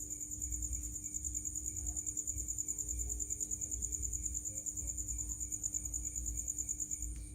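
Cricket chirping in a continuous high-pitched trill of very rapid, even pulses, with a faint steady low hum underneath.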